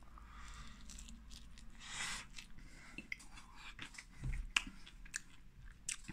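Close, faint chewing of a mouthful of oven-baked potato skin loaded with bacon and cheese: soft wet chewing with scattered small crunches from the crispy skin.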